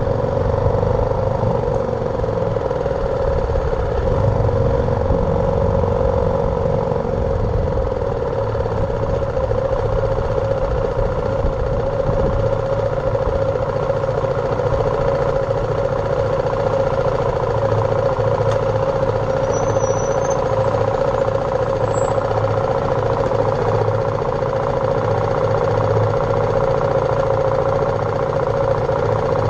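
BMW G310R's single-cylinder engine running at a steady, unchanging engine speed, heard from the bike's own action camera.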